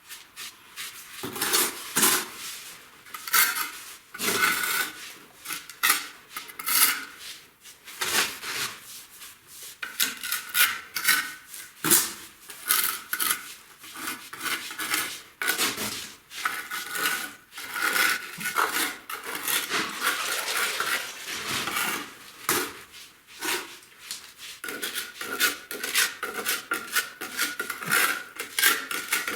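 Hand tools scraping and clinking against brick and mortar in bricklaying work: many short, irregular scrapes and taps, one after another.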